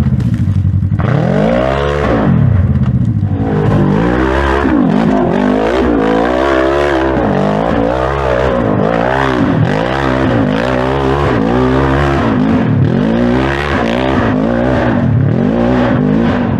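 Polaris RZR RS1 single-seat side-by-side's engine revving hard as it works up a steep climb. The pitch rises and falls about once a second as the throttle is worked on and off.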